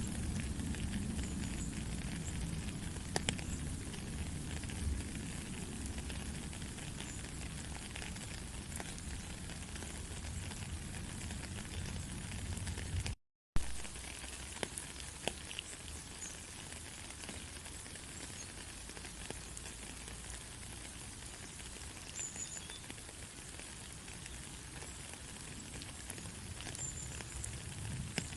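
Steady rain hiss with scattered small drop ticks. About 13 seconds in the sound cuts out completely for a split second and comes back with a sharp click: an edit splice in the recording. After the splice the rain runs on a little quieter, with less low rumble.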